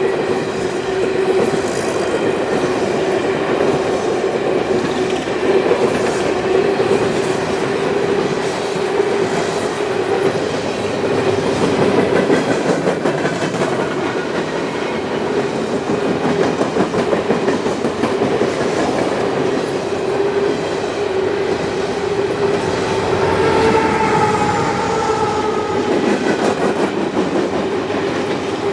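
Freight train cars rolling past, steel wheels clattering over the rails with a steady rumble. Brief higher-pitched whining tones come in about three-quarters of the way through.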